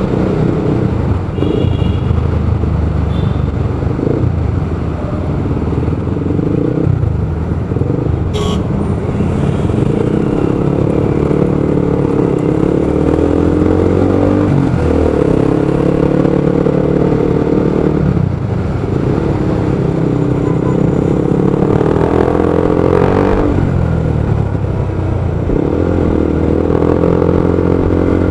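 Motorcycle engine running under way in traffic, its note climbing with throttle and dropping back several times as the rider shifts or eases off, over a steady wash of road and traffic noise. A sharp click about eight seconds in.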